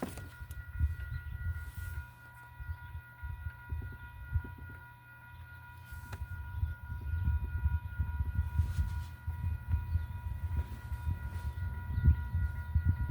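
Gusty low rumble of wind buffeting the microphone, stronger from about six seconds in, with a faint steady high whine above it.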